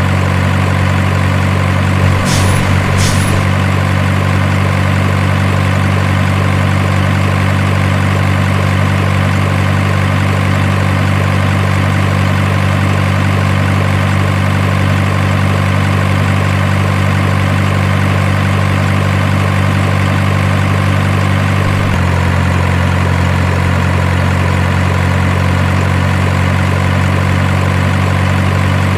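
Steady diesel truck engine idle sound, with two short sharp puffs a second apart about two seconds in and a slight change in its note about twenty-two seconds in.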